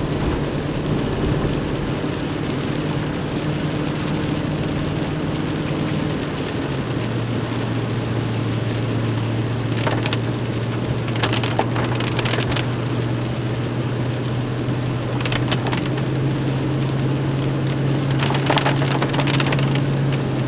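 Heavy rain and rushing storm runoff make a steady noise over a low vehicle engine hum, which drops in pitch about seven seconds in. Several bursts of crackling come in the second half.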